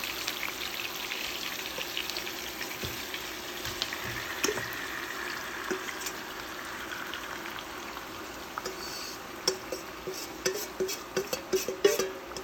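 Hot oil sizzling and crackling in a pot on the stove, the oil reused from frying onions. From about nine seconds in, a quick run of sharp clinks and knocks of a utensil against a pot or bowl.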